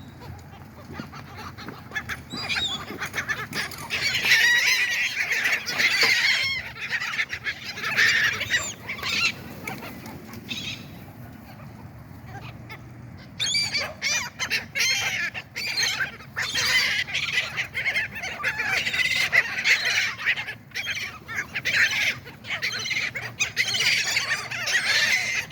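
A flock of seagulls calling loudly over one another in overlapping squawks. The calls thin out for a few seconds near the middle, then pick up again.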